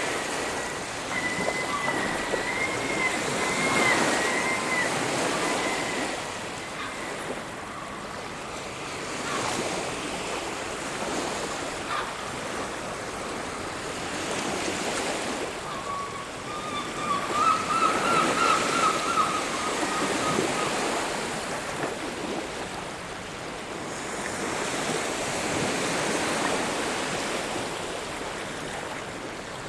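Surf on a beach: waves breaking and washing up every few seconds, with some wind. A faint wavering tone is heard twice, in the first few seconds and again about seventeen seconds in.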